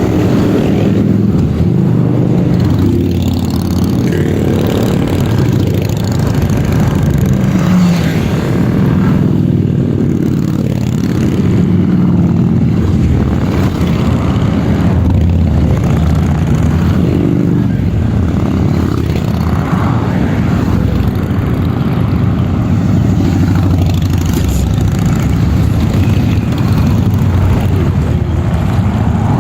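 Several Harley-Davidson motorcycle engines running steadily in a group ride, their pitch rising and falling as they rev.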